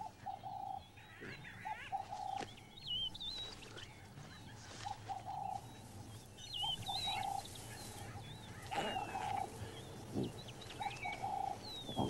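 Bird calls: short, low cooing notes repeated every second or two, with quick high chirps and twitters between them.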